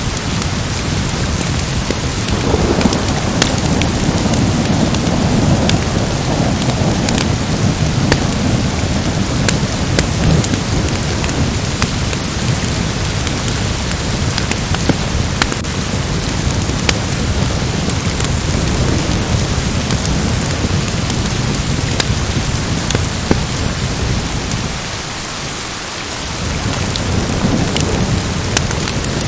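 Steady heavy rain with thunder rumbling low a few seconds in, and scattered sharp ticks through the rain; the low rumble eases off briefly near the end.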